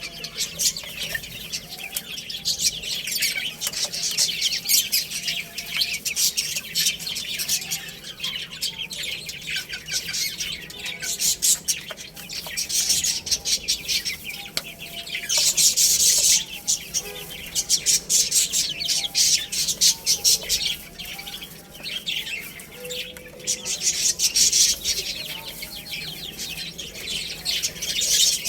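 Many small birds chirping and chattering together in a dense, continuous din, louder in stretches, with scattered lower short calls among the high chirps.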